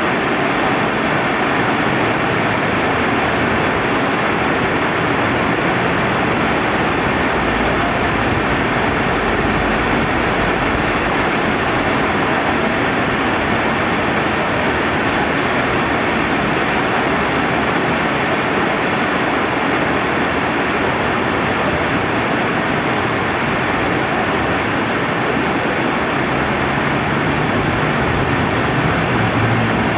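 Rain falling by a flowing river: a dense, steady hiss of rain and running water, with a low rumble swelling slightly near the end.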